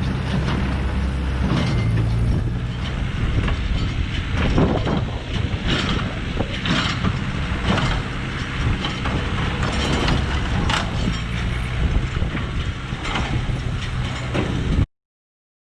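Ford 8N tractor's engine running steadily while a Massey Ferguson No. 3 square baler works, its mechanism clattering with irregular sharp clacks. The sound cuts off suddenly near the end.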